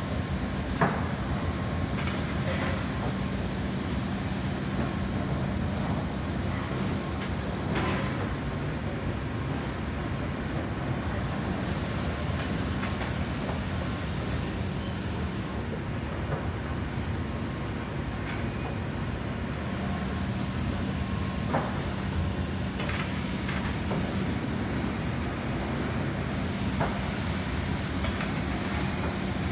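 Automatic car wash equipment running: a steady rushing noise with a low hum and a few scattered knocks.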